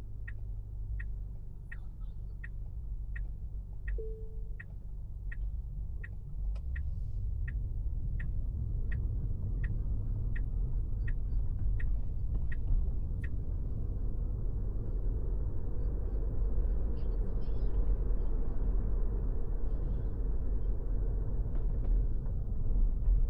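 Car interior: the turn-signal indicator ticks about once every 0.7 seconds over the low engine and road rumble, then stops partway through. The rumble and road noise then grow steadily louder as the car picks up speed.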